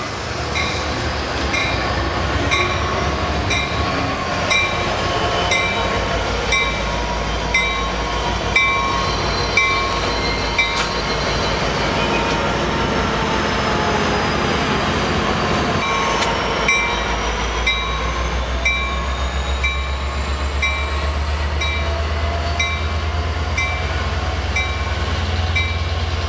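Standing passenger train with its F59PH diesel locomotive running, a bell ringing steadily about once a second. About 17 seconds in, the engine's low hum gets louder and a faint whine rises slowly in pitch.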